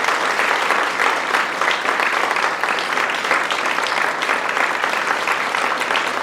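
Theater audience applauding steadily, a dense continuous clapping.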